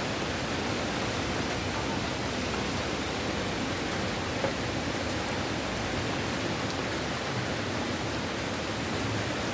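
Steady rushing noise of strong hurricane wind in the trees, with one faint tap about four and a half seconds in.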